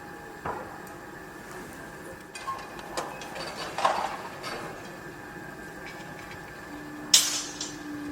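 Construction-site noise: irregular metallic clanks and knocks over a steady machine hum, the loudest clank about seven seconds in.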